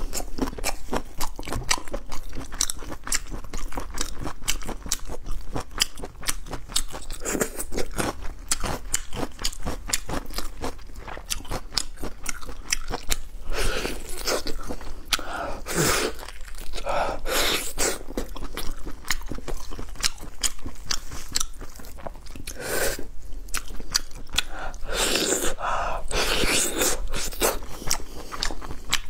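Close-miked chewing and biting of a braised pig's trotter, its skin full of collagen: many wet clicks throughout, with a few louder stretches in the middle and near the end.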